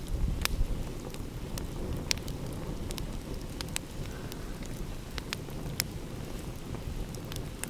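Wood fire crackling, with irregular sharp pops and snaps, over a steady low rumble of ocean waves.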